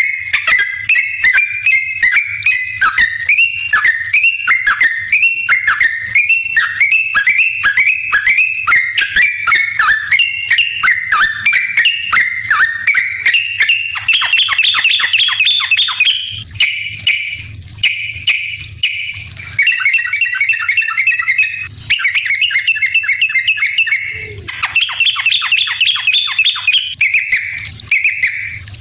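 Yellow-vented bulbul (trucukan) singing: a steady run of quick chattering whistled notes, about three or four a second. About halfway in, the song breaks into separate bursts of faster bubbling trills with short gaps between them. A faint low hum runs underneath.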